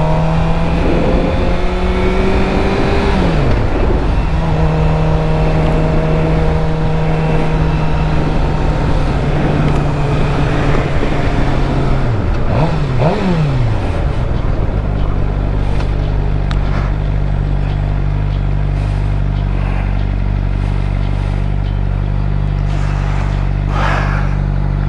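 2013 Suzuki GSX-R 600's inline-four engine running on the road. The note holds steady, drops in pitch about three seconds in and again twice near the middle as the bike slows, then settles into a steady low note for the rest.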